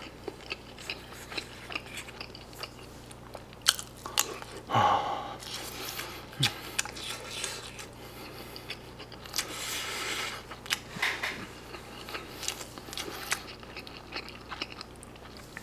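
Close-up mouth sounds of a man eating a pizza-cheese pork cutlet lunch: wet chewing, biting and lip smacking in irregular small clicks, with a few sharper ticks and short breathy swells.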